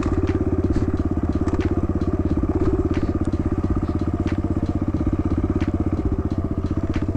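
Kawasaki KLX110 dirt bike's small single-cylinder four-stroke engine running steadily at low revs, with little or no throttle, and a few light clicks over it.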